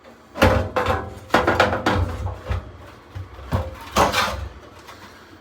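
Irregular metal clanks and knocks, about eight of them, from sheet-metal parts of an HVAC blower assembly being handled and fitted back together.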